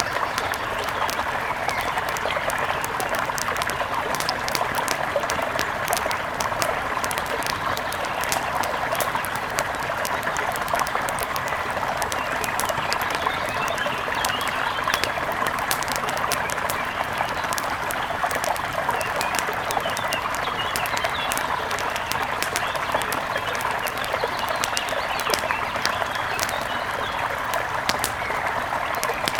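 Steady rush of a mountain river, with small forest birds chirping over it, more often in the second half, and frequent faint crackles.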